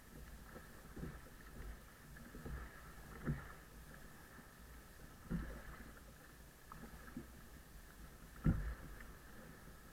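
Kayak out on the water: water noise with irregular thumps every second or two, the loudest about eight and a half seconds in.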